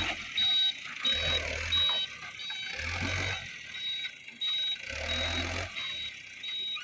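Dump truck's reversing alarm beeping in an even high-pitched series, a little under two beeps a second, over a low hum that swells and fades about every two seconds.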